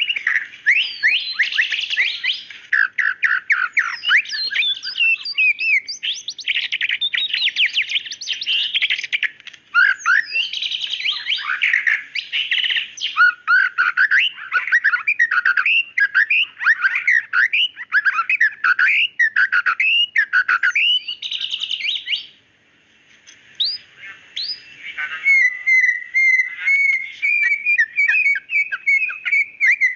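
White-rumped shama (murai batu) singing: a loud, rapid, varied stream of sharp whistled notes and sweeps. After a brief pause about three quarters of the way through, it shifts to a fast, even trill of repeated notes.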